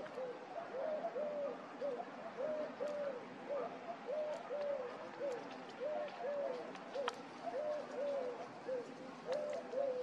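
A bird cooing: a repeating phrase of two or three short, low notes, about every second and a half.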